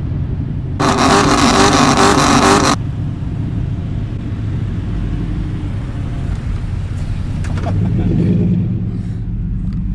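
Straight-piped pickup truck engine running with a steady low exhaust drone. About a second in comes a loud burst of noise lasting about two seconds, and the engine note swells again near the end.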